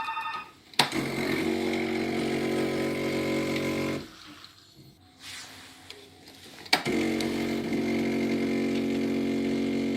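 BLACK+DECKER BXCO1200E espresso machine's pump buzzing steadily in two runs of about three seconds each, separated by a pause. Each run starts with a click, and a short beep sounds at the very start.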